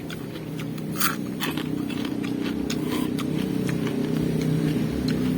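A motor engine hum that grows steadily louder, with crisp crunching clicks of raw vegetables being bitten and chewed over it.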